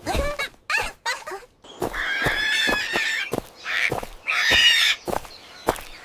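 Cartoon animal cries: a few short squealing calls that slide in pitch, then two longer high-pitched cries about two and four and a half seconds in, with sharp taps between them.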